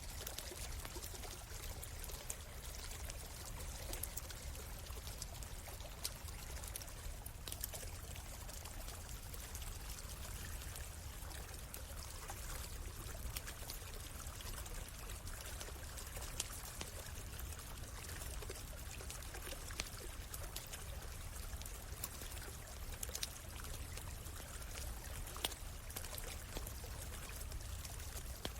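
A small stream running and trickling steadily, with scattered sharp crackles and pops from a wood campfire every few seconds.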